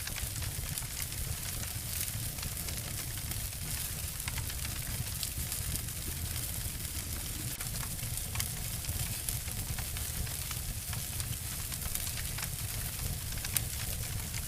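Two wood fires burning together, crackling steadily with frequent sharp snaps over a low rumble; one louder snap near the end.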